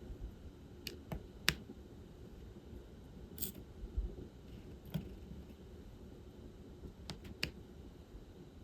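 Scattered small clicks and taps of diamond painting: the drill pen picking up and pressing resin drills onto the canvas, about seven irregular clicks, the sharpest about one and a half seconds in.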